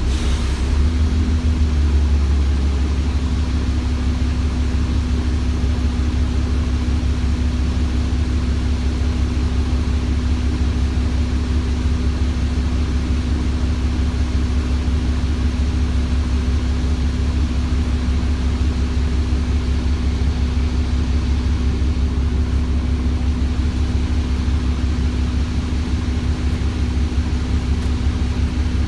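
Cummins ISBe 6.7-litre straight-six diesel engine of an ADL Enviro400 double-decker bus running steadily, a deep engine drone with a constant hum at one even pitch.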